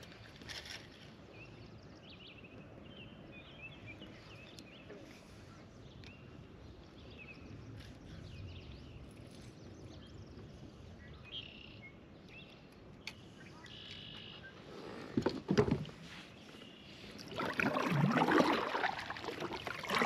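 Faint outdoor surroundings on the water with a few short high chirps, then louder sloshing and handling noise from the kayak in the last few seconds.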